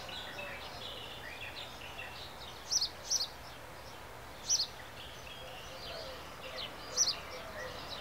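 Birds calling: short, sharp high notes, some single and some in quick pairs, every second or two, over a steady background hiss.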